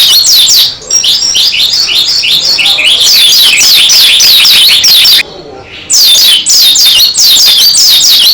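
A pleci dakun white-eye singing hard in loud, fast runs of high, downward-sweeping chirps, breaking off briefly about five seconds in before starting again.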